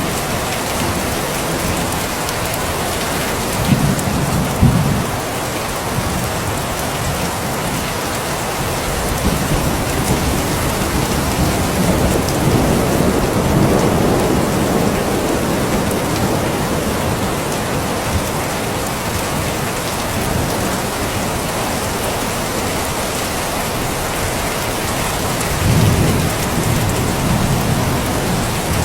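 Steady, heavy rain falling, with low rumbles of thunder swelling up about four seconds in, again near the middle and once more near the end.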